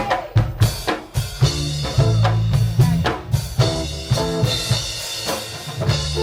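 Lovers rock reggae band playing live: drum kit hits with snare rimshots and bass drum, then a bass line and pitched instrument chords come in about a second and a half in.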